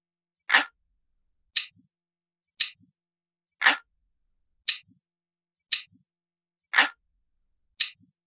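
Crisp, glass-like clock ticking, about one tick a second, with every third tick louder and fuller.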